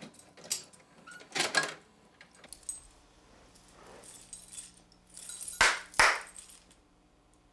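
A few separate jangling, clattering handling noises, the loudest two close together near the end, over a faint low steady hum that starts a couple of seconds in.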